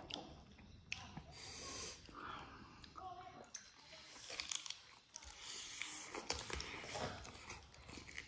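A person chewing and sucking on a cooked chicken foot, with many short mouth clicks and smacks.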